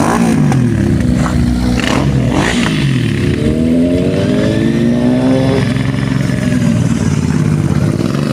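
Superbike engines revving and accelerating, the pitch swooping down and up in the first few seconds, then climbing steadily and falling away near the end.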